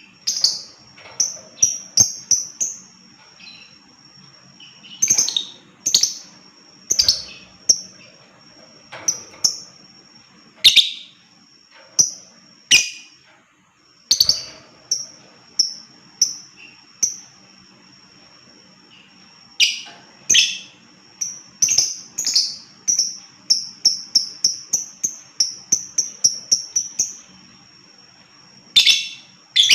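Lovebird calling: sharp, high chirps in short clusters with pauses between, and a fast run of quick repeated notes about two-thirds of the way through.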